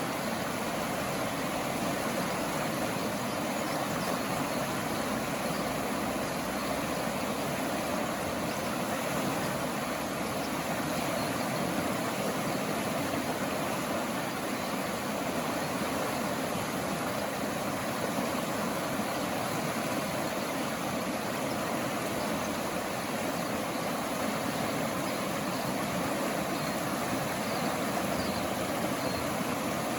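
Flowing water rushing steadily, with no change in level or pattern.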